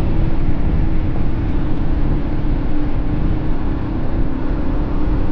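Yamaha XT250 single-cylinder motorcycle engine running at a steady pace while riding, with wind rumbling on the microphone.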